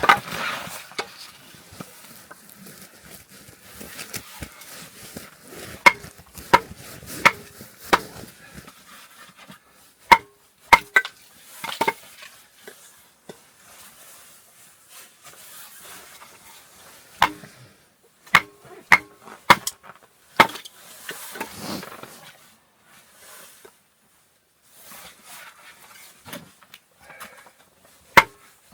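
A knife being hammered through a piece of firewood to split it for kindling (batoning): sharp wooden knocks in runs of three to five, with pauses between runs.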